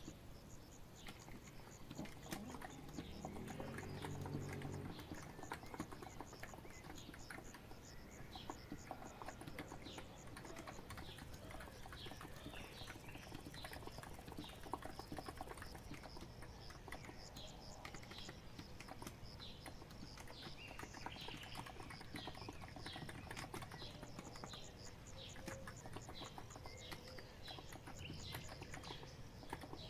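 Continuous typing on a COX Empress electro-capacitive (Topre-style) keyboard: a quick, steady run of soft key strokes. Birds call faintly behind it.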